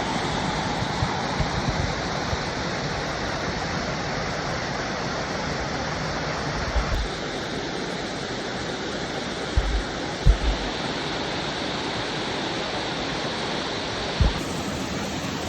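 Steady rush of flowing water from a stream or waterfall, with a few brief low bumps on the microphone.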